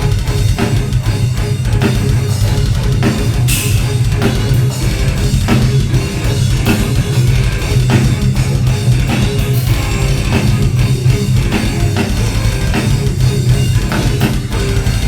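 Live heavy metal band playing: distorted electric guitars, bass and a drum kit with fast, constant kick-drum hits, with no vocals.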